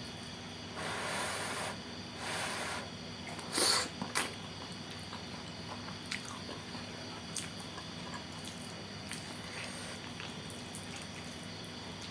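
A person eating saucy noodles close to the microphone: two soft slurps in the first few seconds, two sharp clicks a little under four seconds in, then quiet wet chewing with small clicks over a steady room hum.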